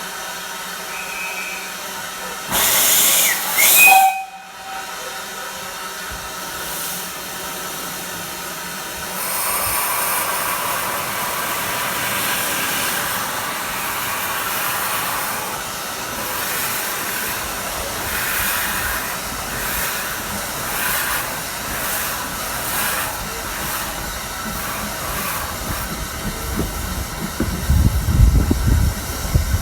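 Narrow-gauge steam locomotive hissing steam, with a loud, brief blast of steam about three seconds in and steady hissing through the rest.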